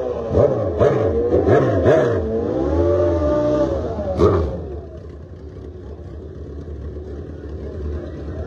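Drag racing engines revving in quick blips, about two a second, then a longer rev and one sharp rev about four seconds in, after which it drops to a quieter, steady engine rumble.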